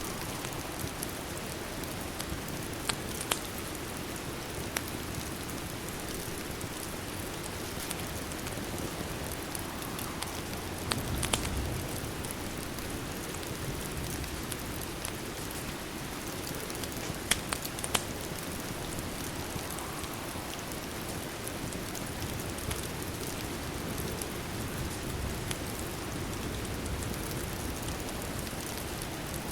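Steady rain falling, with a few sharp pops of a crackling fireplace fire, in pairs about 3, 11 and 17 seconds in.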